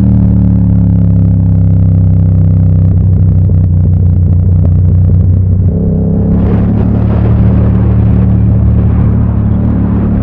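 Yamaha MT-07's parallel-twin engine running on the move, its note easing gently down in pitch, then changing about six seconds in as a rougher, noisier sound builds over it.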